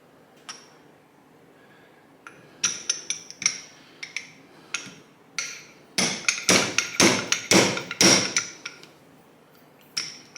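Motorcycle fork seal being driven into the fork leg with a fork seal driver, hard strikes on the seal. A few light taps come first, then strikes roughly every half second. About two-thirds of the way through comes a quicker, louder run of blows before they stop.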